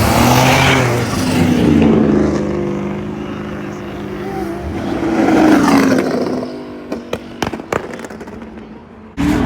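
Car engines running, one revving with its pitch rising and falling, then a handful of sharp cracks; a louder burst of engine noise cuts in just at the end.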